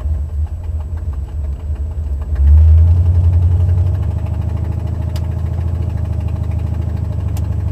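Buick 455 Stage-1 V8 running, heard from inside the car with the windows up, with a rapid ticking puff from an exhaust leak where the #7 header gasket has broken off on the driver's side. The engine gets louder about two and a half seconds in.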